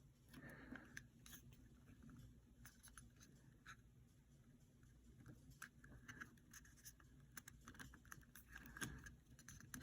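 Near silence: faint room tone with scattered quiet clicks and ticks.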